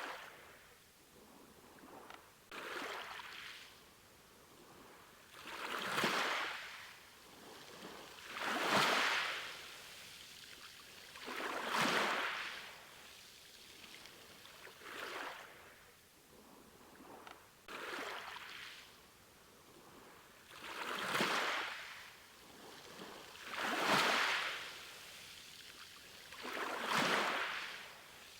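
Sea waves, each surge of surf swelling and fading away about every three seconds.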